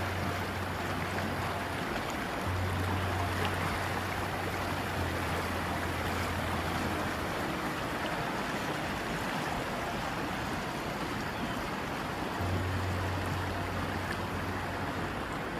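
River water flowing steadily, an even rushing noise, with a low hum that sounds in stretches and stops for a few seconds around the middle.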